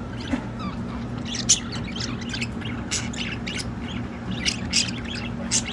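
Pet budgerigars chattering: a busy stream of short chirps and scratchy squawks, over a steady low hum.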